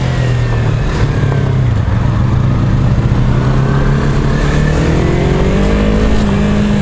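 Yamaha MT-25's 250 cc parallel-twin engine running at low revs, holding steady, then rising in pitch for the last couple of seconds as the bike accelerates, heard from the rider's helmet.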